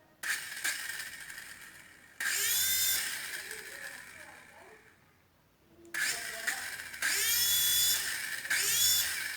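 Small electric motor of a toy RC helicopter spinning its rotor up with a quickly rising whine each time a push button is pressed, then coasting down. One long spin about two seconds in, then several short presses in quick succession near the end.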